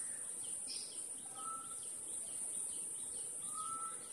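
Birds chirping: a run of quick short chirps and two short whistled notes, one about a second in and one near the end, over a steady high-pitched hiss.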